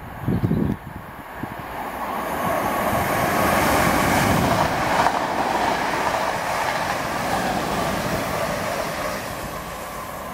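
Electric multiple-unit passenger train passing through without stopping: the rush and rumble of its wheels on the rails builds over a couple of seconds, is loudest about four seconds in, then slowly fades as it draws away. Wind buffets the microphone at the start.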